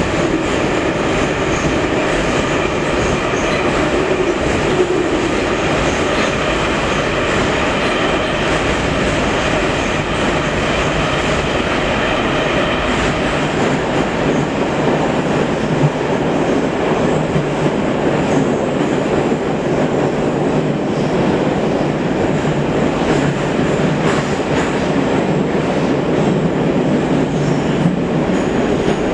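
Metro train running at speed: steady rumble of wheels on rails, with a faint clickety-clack and steady motor tones over it.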